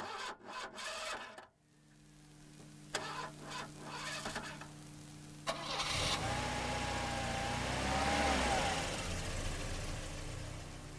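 Hyundai sedan's engine cranking for about a second and a half, catching, then idling steadily. About five and a half seconds in it gets louder as the car pulls away, then eases off near the end.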